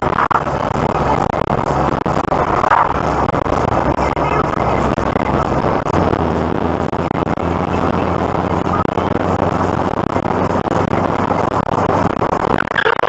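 Engine and road noise of a car being driven, heard from inside the car, with a steady low engine hum that is strongest in the middle.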